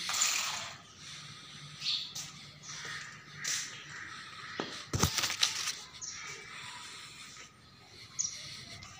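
Birds chirping repeatedly in short high calls, with a brief cluster of sharp clicks about five seconds in.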